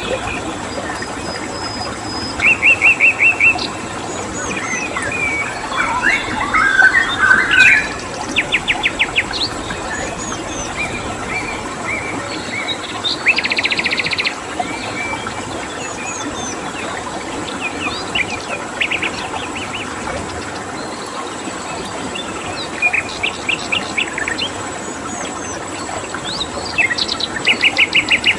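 Several songbirds chirping and giving short, rapid trills, about five bursts of quick repeated notes, over a steady rush of flowing stream water and a continuous high insect tone from crickets.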